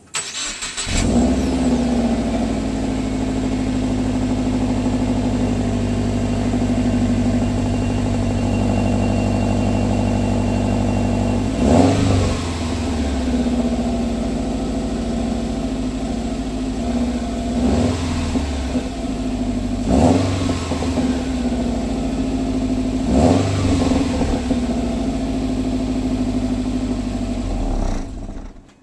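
Stock 2012 Subaru WRX's turbocharged 2.5-litre flat-four heard through its factory quad-tip exhaust: it starts up and settles into a steady idle. It is blipped in four short revs over the second half, then shut off near the end.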